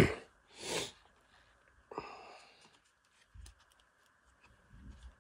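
Sparse, faint handling sounds while working on a string trimmer head: a breathy rush, then a short scrape about two seconds in and a soft low knock a little later, with quiet gaps between.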